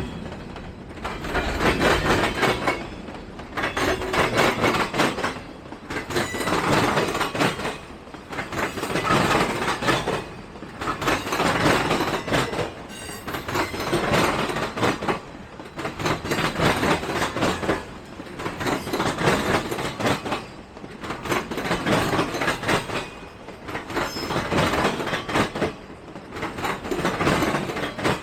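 Freight train cars rolling past at close range, the wheel noise surging and easing about every two seconds as car after car goes by.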